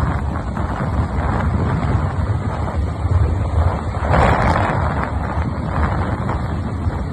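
Wind buffeting the microphone while riding along a road, over a steady low rumble of the moving vehicle, with a stronger gust about four seconds in.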